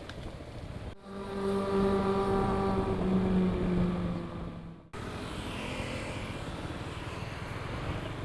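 Yamaha XMAX 300 scooter riding, its single-cylinder engine note steady and sinking slightly in pitch over road and wind noise. The sound cuts abruptly twice, about a second in and again about five seconds in, where the engine note gives way to steadier wind and road noise.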